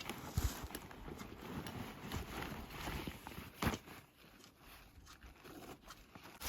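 Footsteps on the forest floor: an irregular series of crunches and knocks, with one louder knock a little over halfway through.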